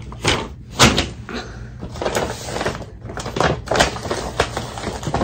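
Rustling and handling noises of a shopping bag being rummaged through and items taken out of it, a string of separate crinkles and light knocks.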